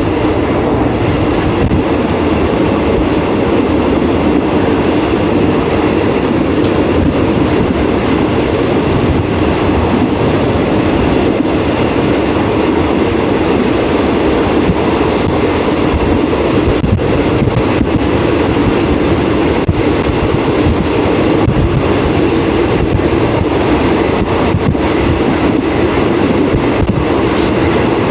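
A train running steadily along the track: a loud, even rumble with faint scattered clicks of the wheels over the rails.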